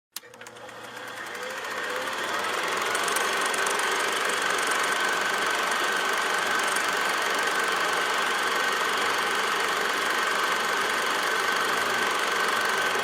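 A motor-driven machine running steadily, fading in over the first two seconds and rising in pitch as it spins up, then holding a steady high whine over a broad hum.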